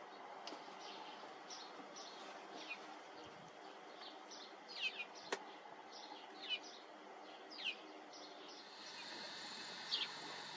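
Small birds chirping faintly: short, downward-sliding calls repeated irregularly, with one sharp click just past the middle. The background hiss grows brighter near the end.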